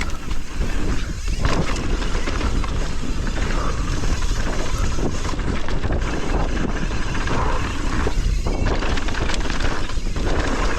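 Mountain bike descending a dirt trail at speed: steady wind rush on the microphone with tyre noise and the bike's rattle over rough ground.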